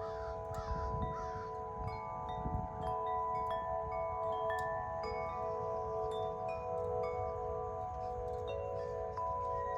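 Two large Corinthian Bells wind chimes, 50-inch and 36-inch, struck again and again by the wind. Their long tones ring on and overlap with a slow wavering beat, over the low rumble of gusty wind on the microphone.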